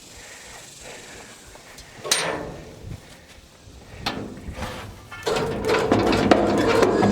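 A winch hauling a heavy old bus body: two sharp knocks about two seconds apart, then from about five seconds in a steady mechanical running and grinding sound as the load is dragged along and pulled off its jack.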